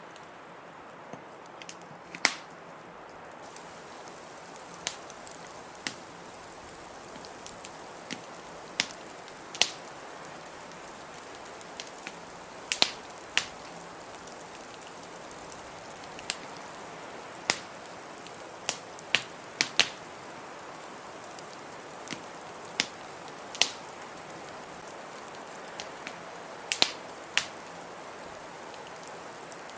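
Wood fire crackling in a fireplace: sharp pops and snaps at irregular moments, some a fraction of a second apart and others several seconds apart, over a steady rushing hiss.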